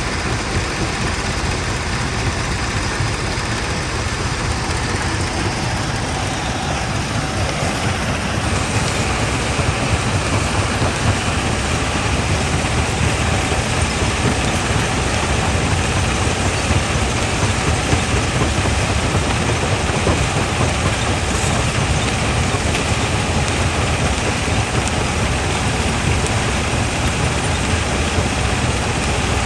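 Primary jaw crusher running and crushing rock: a dense, steady mechanical noise that grows a little louder about eight seconds in.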